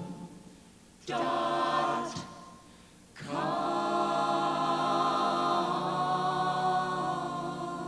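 An a cappella vocal group singing a comic song: a short sung phrase, then a long held chord in several voices.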